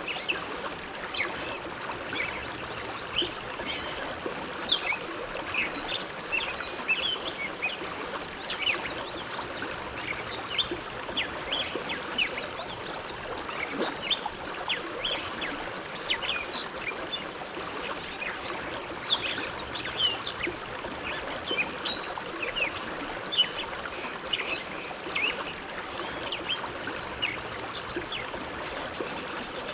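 Bow River flowing and babbling steadily, with many quick splashes and plinks of water over the rush.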